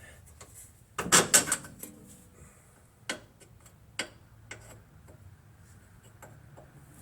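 Scattered metal clinks and knocks from suspension hardware and hand tools being handled during a control-arm install: a quick cluster of sharp knocks about a second in, then single clicks about three and four seconds in.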